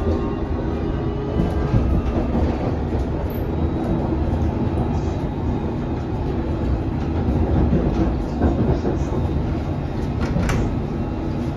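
London Underground S stock train running between stations, heard from inside: a steady rumble of wheels on the rails, with a few sharp clicks over rail joints.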